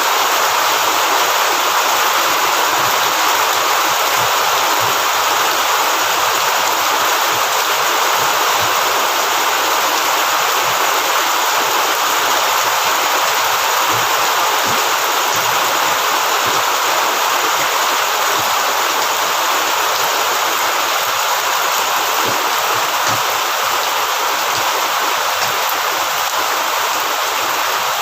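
Heavy rain pouring down steadily, a dense, even rushing hiss.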